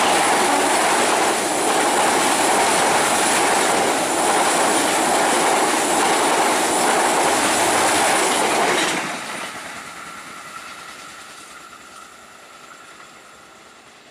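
Passenger train coaches passing close by over a steel girder railway bridge: a loud, continuous rumble and clatter of wheels on rails. About nine seconds in the last coach clears and the sound drops off sharply, then fades as the train moves away, with a faint steady thin whine near the end.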